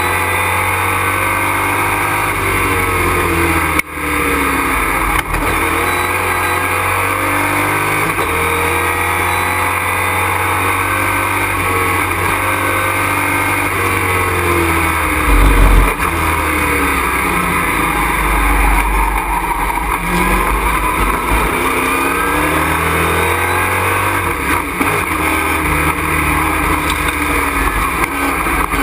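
Race truck's engine heard from inside the cockpit, pulling hard, its pitch climbing and falling repeatedly, with brief drops at gear shifts about four and five seconds in. A loud low rumble about halfway through is the loudest moment.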